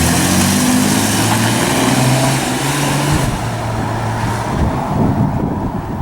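2006 Chevy Impala's 3.9-litre V6 pulling under acceleration on a drive, its pitch climbing for about three seconds, then easing off, with road and wind noise throughout.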